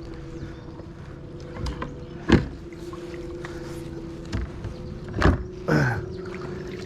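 Sharp knocks on a kayak, the loudest a little over two seconds in and another about five seconds in, over a steady low hum.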